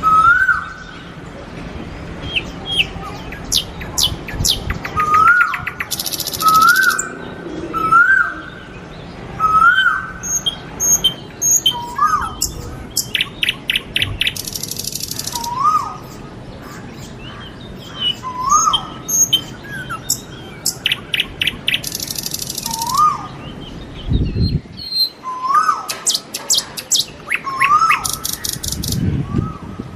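Birds calling: a short rising whistled note repeats about every second and a half, mixed with higher chirps and quick trills. A burst of high buzzing hiss comes round about every eight seconds.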